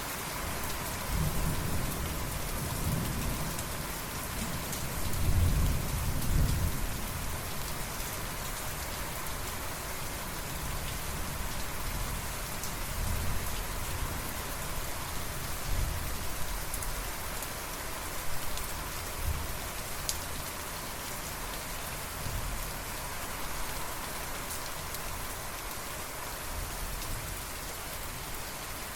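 Steady rain falling, with rolling thunder rumbling low and swelling most strongly about five to six seconds in, then fainter rumbles later.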